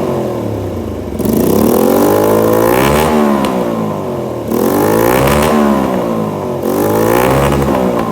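Honda Shadow 125 V-twin motorcycle engine revved through its exhaust three times, each rev rising in pitch and falling back toward idle.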